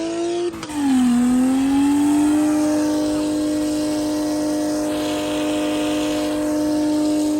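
Supercharged big-block V8 mud truck engine held at high revs. The pitch dips about a second in, climbs back up and holds steady until it cuts off abruptly at the end.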